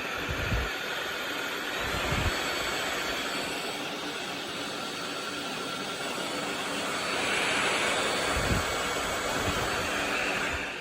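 Cordless stick vacuum cleaner running steadily with an airy whoosh and a faint motor whine, with a few dull knocks as the brush head is moved about.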